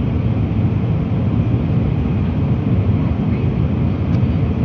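Airliner cabin noise in flight on the approach to landing: a steady low rumble of the engines and rushing air, with a faint steady hum.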